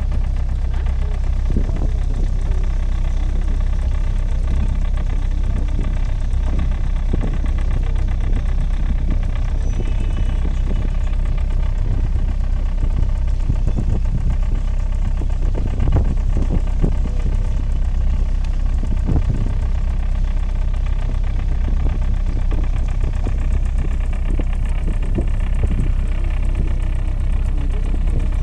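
A boat engine running steadily with a deep, even hum, heard from on board.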